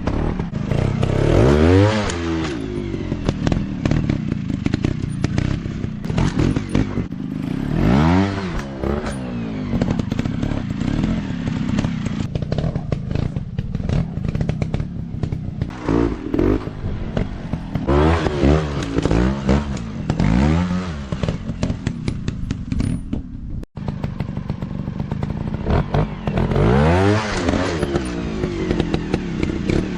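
Dirt bike engines revving up and down again and again, the pitch rising and falling every few seconds, with some clatter.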